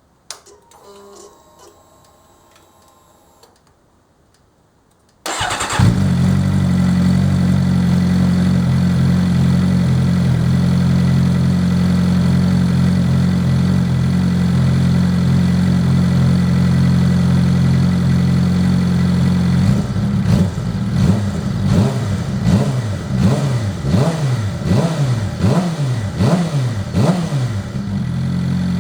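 2011 Suzuki GSX-R600 inline-four sportbike engine through a Yoshimura TRC carbon-fibre slip-on exhaust, already warm, starting about five seconds in and settling into a steady idle. From about twenty seconds in it is revved in a quick series of short blips, each rising and falling, then drops back to idle near the end.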